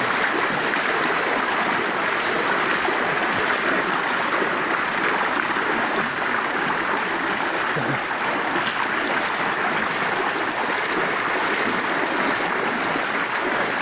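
Floodwater rushing steadily, a continuous even rush of flowing water.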